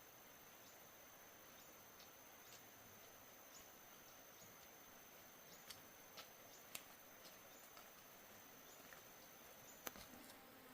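Near silence: faint outdoor ambience with a thin, steady high tone that stops near the end, and a few scattered faint clicks.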